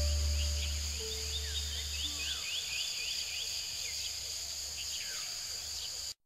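Steady high trilling of crickets or similar insects with many short bird chirps over it, while low sustained music tones fade out about two and a half seconds in. Everything cuts off abruptly just before the end.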